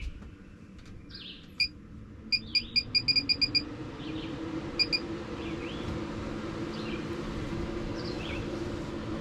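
Maxxfan roof vent fan's control panel beeping as the speed is stepped up: one beep, then a quick run of about nine, then two more. Under the beeps the fan motor spins up, its hum rising in pitch and then holding steady.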